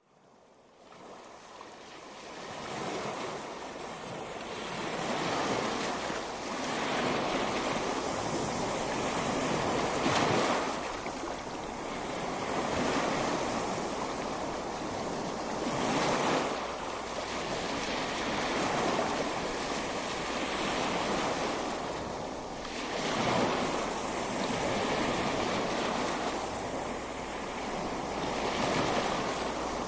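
Ocean waves breaking and washing up on a beach, fading in over the first few seconds, then a continuous surf that swells and ebbs as each wave comes in.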